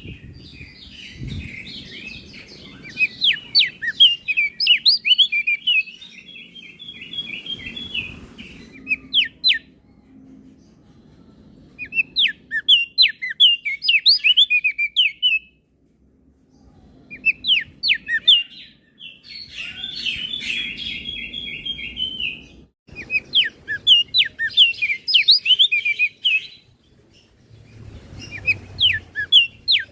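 Crested heleia (opior jambul) singing: bouts of rapid, high chirping phrases mixed with buzzy trills, broken by short pauses of a second or two.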